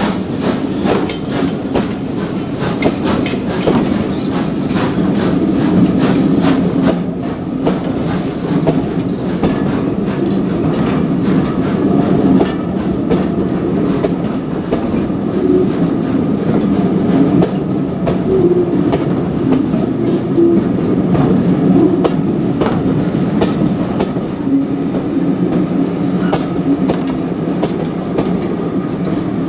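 Railway carriages of a passing train rolling by, wheels clicking over the rail joints in a steady run of clicks under a continuous rumble.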